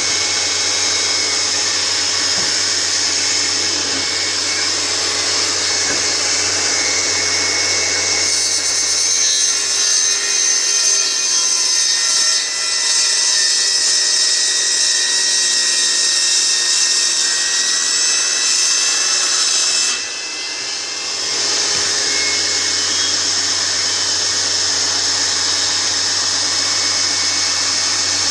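Electric power saw running and cutting through wood, its motor whine shifting in pitch under load in the middle stretch. The sound eases for a moment about twenty seconds in, then the saw carries on.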